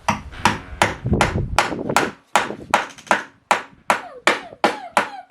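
A hammer driving a nail into wood with a long run of quick, even taps, about three to four a second, the pace picking up slightly.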